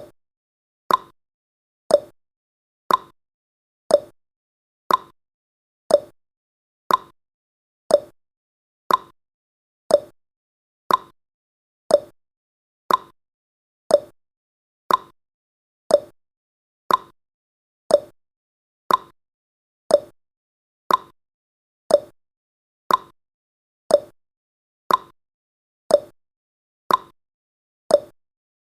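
Countdown timer's clock-tick sound effect: one short, sharp tick every second, alternating between a higher and a lower pitch like a tick-tock.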